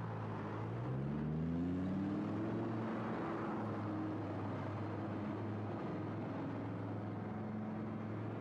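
Audi R8's V10 engine pulling away, its pitch climbing for the first couple of seconds and then holding steady as the car moves off.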